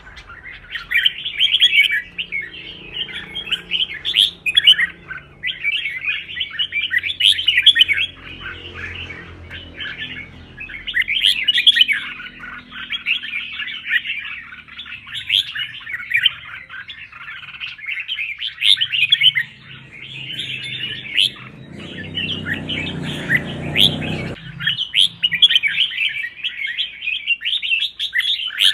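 Red-whiskered bulbul song: fast runs of chirping, whistled phrases that go on almost without a break, with only short pauses. A low rumbling noise sounds underneath for about two seconds, about three-quarters of the way through.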